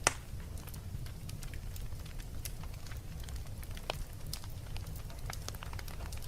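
Wood fire crackling in a fireplace: irregular sharp pops and snaps over a steady low rumble, with one loud pop right at the start.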